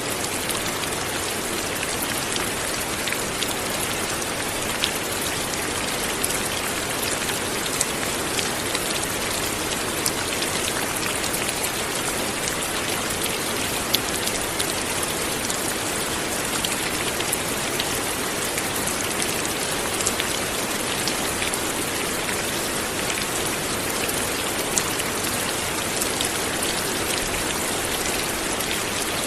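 Steady light rain falling, an even hiss with scattered individual drop ticks on a surface.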